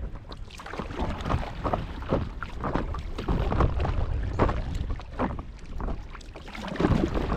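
A paddle dipping and splashing in lake water, stroke after stroke at an uneven pace, over wind buffeting the microphone.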